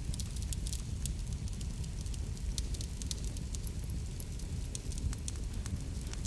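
Fireplace fire crackling: many small, irregular pops and snaps over a steady low rumble of the flames.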